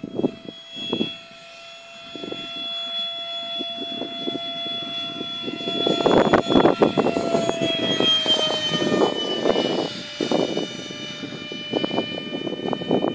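Electric ducted fan of a Parkzone Habu 2 RC jet whining in flight, a steady high whine whose pitch drops slightly about seven to eight seconds in. Wind buffets the microphone, more heavily in the second half.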